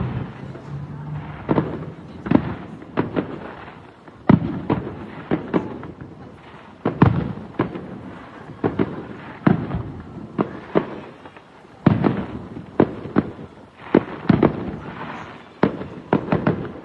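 Fireworks display: sharp bangs going off at irregular intervals throughout, often two or three in quick succession.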